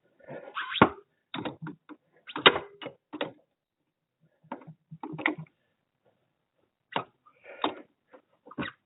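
Irregular metal clicks and scrapes of large pliers gripping and twisting a stuck hydraulic oil filter canister, in short bursts with pauses between.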